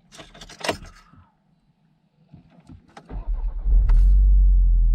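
A few clicks and rattles, then the Mk7 Volkswagen Golf R's turbocharged 2.0-litre four-cylinder engine starts about three seconds in, flaring up quickly and settling into a steady idle.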